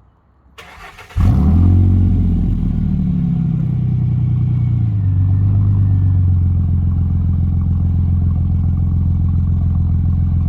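2008 Ford F-150's 4.2-litre V6 starting up about a second in, heard through its new exhaust tip. It flares briefly on start-up, then settles into a steady idle.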